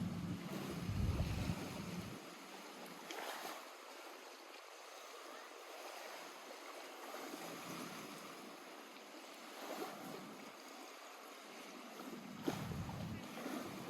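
Small lake waves lapping at the shore, a steady watery wash. A low rumble comes in the first two seconds and again near the end.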